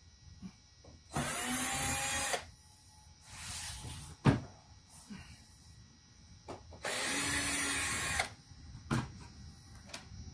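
Cordless Black & Decker drill-driver backing out trim screws: the motor runs in two bursts of about a second each with a steady whine. A single sharp click falls between them.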